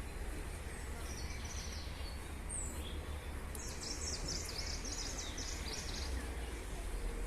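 A small bird chirping: a short high phrase about a second in, then a longer run of quick high chirps from about three and a half to six seconds, over a steady low rumble.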